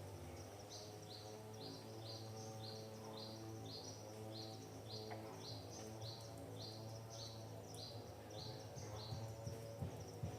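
A bird's high chirp, alternating between two pitches and repeated about two to three times a second, over a steady low hum of several held tones. A few soft knocks come near the end.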